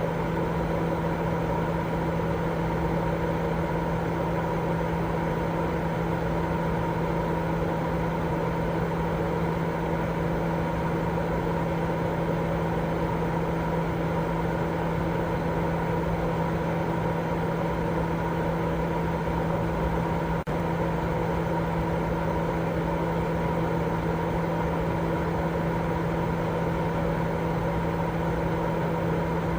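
Steady, unbroken white noise for baby sleep, machine-like, with a low hum and fainter higher tones running under the hiss. A very brief break about two-thirds of the way through.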